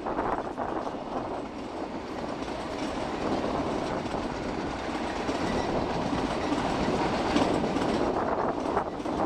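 Metre-gauge passenger coaches rolling past, their wheels clicking over rail joints, with a steady rumble of running gear between the clicks.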